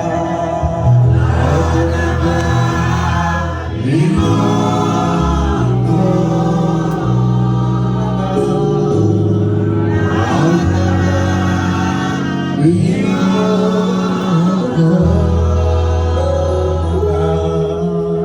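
A choir singing a gospel song over an accompaniment of held bass notes that change every couple of seconds.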